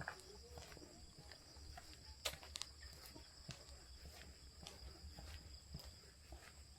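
Faint, steady high-pitched insect chorus at dusk, with scattered footstep clicks on a path and two sharper ones a little over two seconds in.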